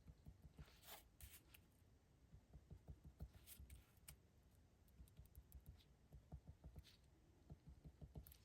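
Near silence with faint, scattered scratches and light ticks of a pen drawing on paper, and a few soft knocks on the table.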